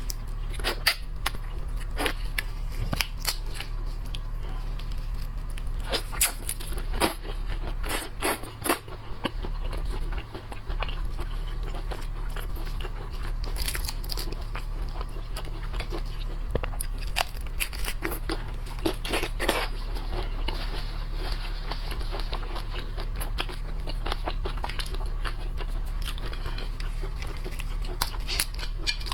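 Crackling and crunching of shrimp shells being peeled and bitten, with chewing, heard as many irregular sharp clicks. A steady low hum runs underneath.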